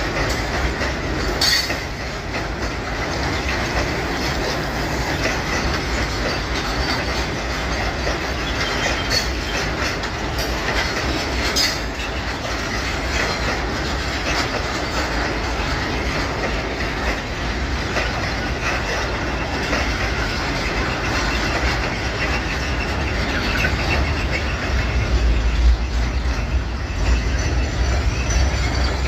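Loaded freight wagons rolling past, with a steady low rumble, wheels clicking over rail joints, and a few sharp clicks.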